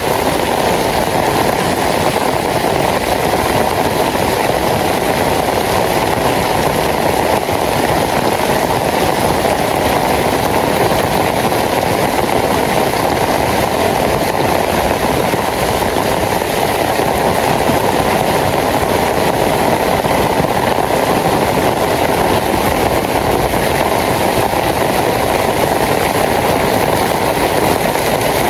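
Heavy rain falling steadily: a loud, even hiss of rain with no breaks or changes.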